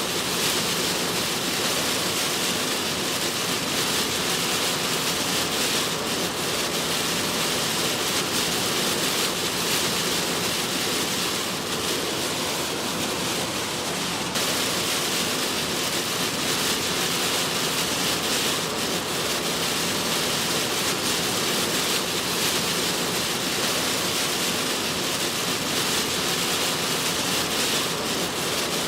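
Heavy storm rain and wind on a car driving through it: a loud, steady, dense hiss, with a small jump in level about halfway through.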